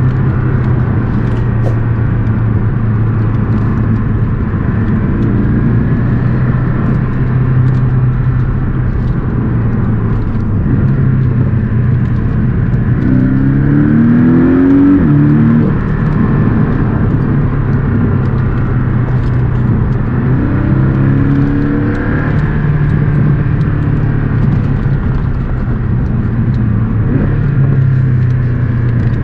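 Porsche 718 Boxster S's turbocharged flat-four engine under way at a steady note, revving up twice, about halfway through and again about three quarters through, each time falling back afterwards.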